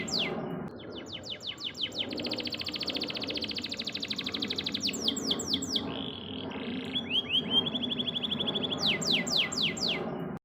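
Domestic canary singing: fast rolling trills alternate with quick runs of downward-sweeping whistles, with a short buzzy phrase about six seconds in.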